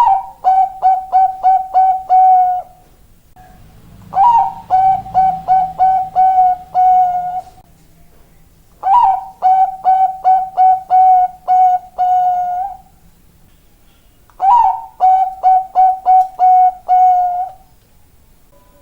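Zebra dove (perkutut bangkok) singing: four cooing phrases a few seconds apart. Each opens with a higher note, then runs into a quick string of short clipped coos that ends on a longer, drawn-out coo.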